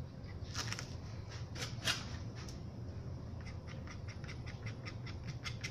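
Spray paint can: a few short hisses of spray, then the can rattled with even clicks about four or five a second, its mixing ball knocking inside.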